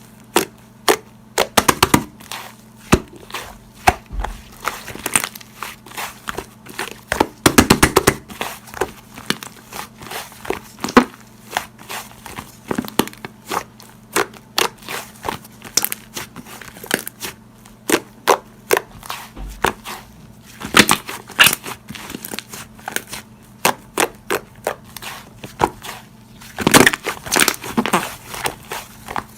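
Slime being squeezed and pressed by hand, giving a quick irregular run of sharp pops and clicks, denser in a few bursts, over a faint steady hum.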